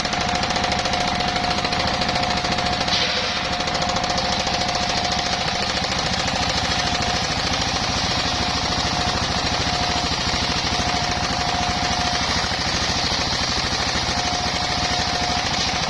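Engine-driven circular sawmill (serkel) running steadily: a rapid, even engine beat with a steady high whine over it.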